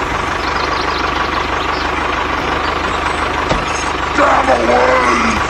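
A tractor engine running steadily with an even low chug. About four seconds in, a brief wavering, voice-like pitched sound lies over it.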